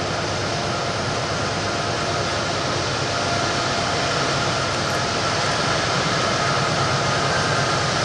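Norfolk Southern freight train running on the mountain grade: a steady, dense rumble of locomotives and rolling cars that slowly grows louder.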